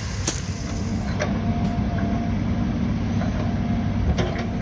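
A heavy vehicle's engine running steadily, with a few short clicks or knocks over it.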